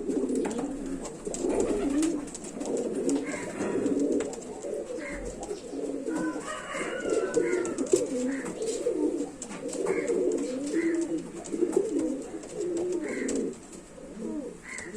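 Several domestic pigeons cooing continuously, their calls overlapping, with a few brief higher-pitched calls among them.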